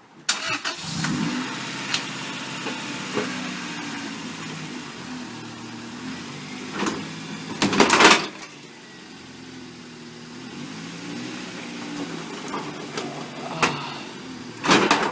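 A car engine running and revving, its pitch rising and falling, with several sharp bangs or knocks; the loudest comes about eight seconds in.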